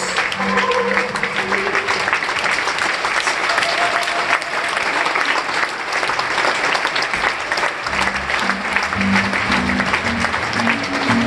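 Theatre audience applauding steadily, with music playing under the clapping; low musical notes come in strongly about eight seconds in.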